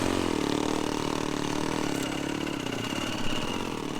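A vehicle engine running under load, its pitch rising and falling again and again as the revs change.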